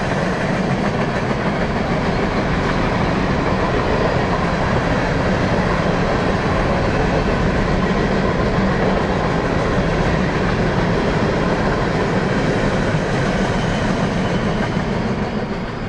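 Freight train of boxcars rolling past, a loud, steady noise of steel wheels running on the rails.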